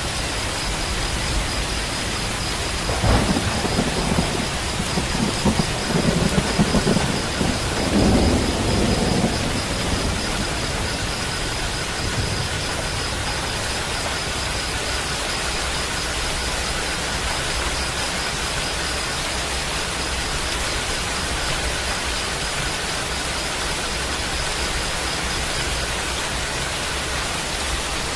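Steady rain, with a roll of thunder from about three seconds in that rumbles in several swells for about seven seconds before dying away.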